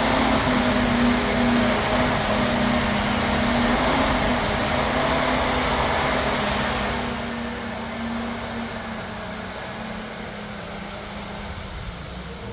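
Water truck running: a steady engine hum over a broad hiss, growing gradually quieter through the second half.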